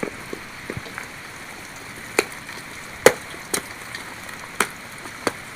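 Rain falling with a steady hiss, with about five sharp taps from drops hitting close by, the loudest about three seconds in.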